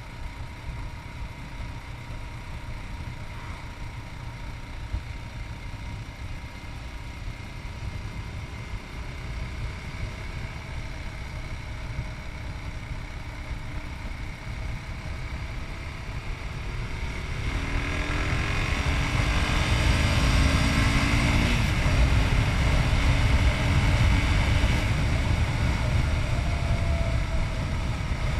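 Yamaha MT-03 660cc single-cylinder motorcycle engine running on the move, under a steady rush of wind noise. About two-thirds of the way through it gets louder and the engine note rises as the bike accelerates, then drops suddenly at a gear change.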